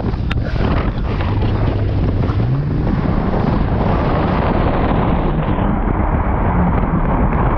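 Jet ski engine running under way with wind buffeting the microphone; the engine note rises about two and a half seconds in as it speeds up.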